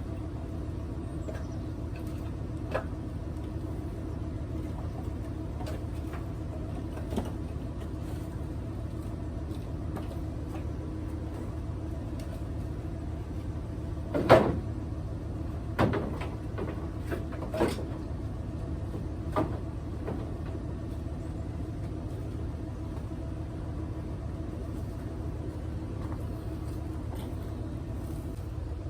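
Split firewood pieces knocking together as they are dropped onto a load: a few sharp knocks about halfway through, the first the loudest, over a steady low hum.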